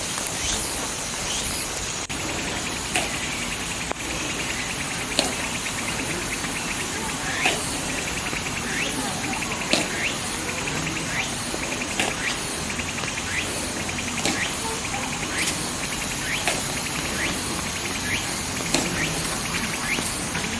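Insects chirping in a fast, steady trill, over an even hiss with scattered short clicks.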